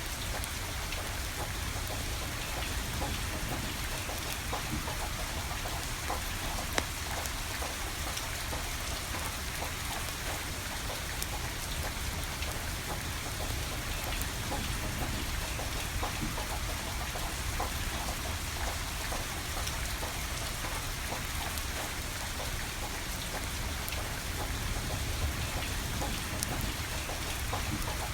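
Steady rain falling, with scattered sharp crackles and pops from a burning wood fire; one pop stands out about seven seconds in.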